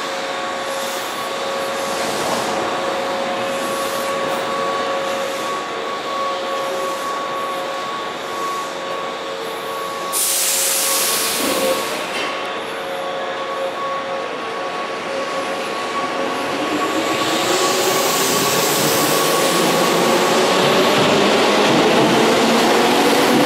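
Electric commuter train at an underground platform. While it stands there is a steady hum with a few held tones, then a short burst of air hiss about ten seconds in as the doors close. From about sixteen seconds in, a motor whine of several tones climbs together and grows louder as the train pulls out and gathers speed.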